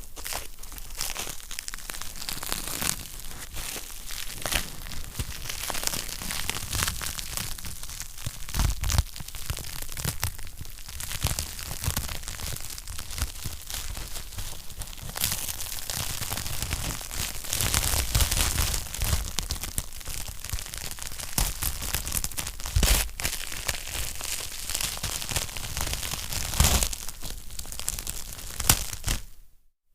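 Wood fire crackling in a fireplace: a dense, continuous run of snaps and pops over a hiss, with a few louder pops.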